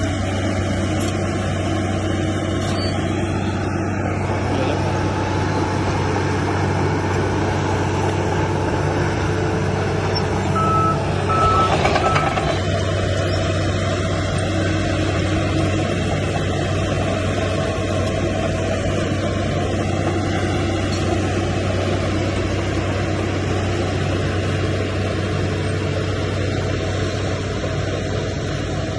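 Heavy diesel earthmoving machinery running steadily under load. A reversing alarm gives three short beeps about ten seconds in, and a brief louder rush of noise follows.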